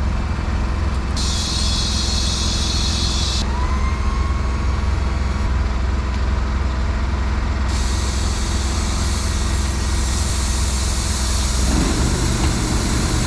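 Heavy truck's diesel engine idling steadily, with a high hiss that comes and goes twice.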